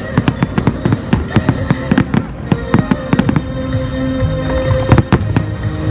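Fireworks display: rapid bangs and crackles of bursting shells, thinning out after about three seconds as music with held notes comes to the fore, then two loud reports near the end.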